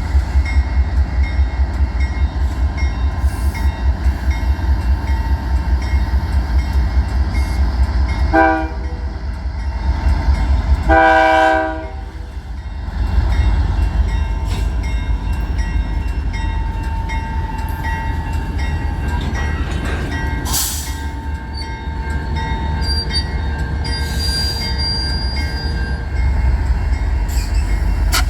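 Diesel freight locomotive horn sounding a short blast about eight seconds in and a longer, louder blast about eleven seconds in, over a constant low rumble of the passing train.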